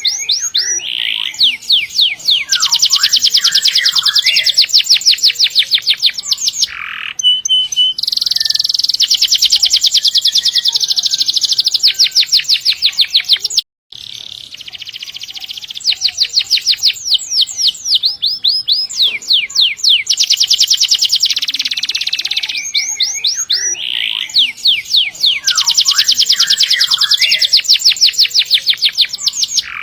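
Domestic canary singing long, rapid rolls and trills, runs of fast repeated notes with short gaps between phrases. The song cuts out for a moment about halfway.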